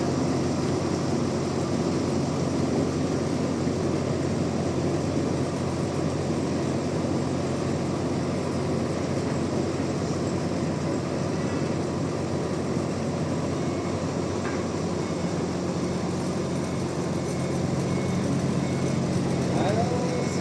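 Band sawmill machinery running steadily, a constant low hum under dense noise; the hum shifts slightly about three-quarters of the way through.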